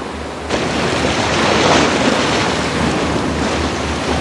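Rushing sea water and wind noise, which jumps up sharply about half a second in, over a low pulsing hum.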